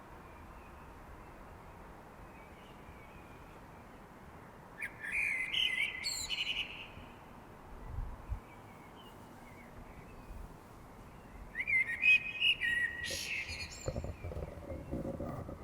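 A songbird singing in the dark before dawn: two short, varied song phrases, one about five seconds in and another about twelve seconds in, over a faint steady background hiss.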